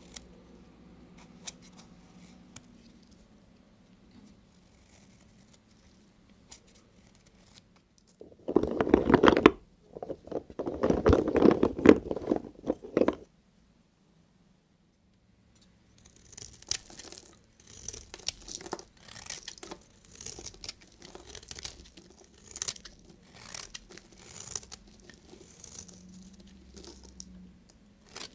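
A knife cutting through bars of soap. About eight seconds in, a loud crunching runs for several seconds in two stretches. After a short silence, a run of short, crisp slicing strokes comes about once a second.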